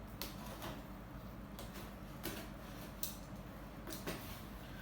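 Parcels and their contents being handled: scattered light rustles and knocks, about six in under five seconds, over a low steady hum.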